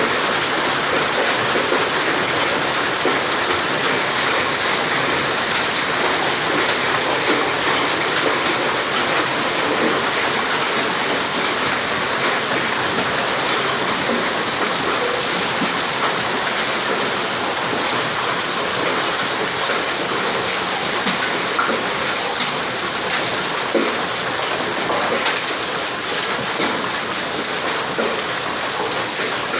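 Heavy rain with hail: a loud, steady downpour with occasional sharper hits standing out from it.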